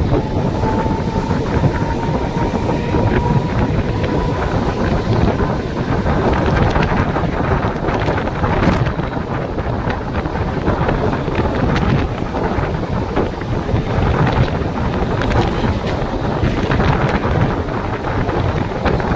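Mumbai suburban local train (electric multiple unit) running at speed, its wheels clattering steadily over the rails, with heavy wind buffeting the microphone. A faint whine rises slightly over the first few seconds.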